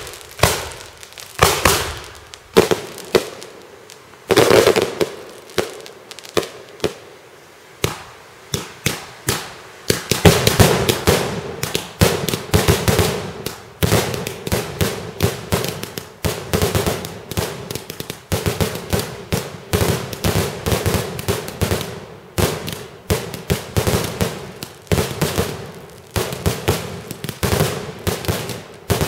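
Fireworks display: sharp bangs of bursting fireworks, each trailing off, a few spaced seconds apart at first, then from about ten seconds in a rapid, dense barrage of bangs several a second.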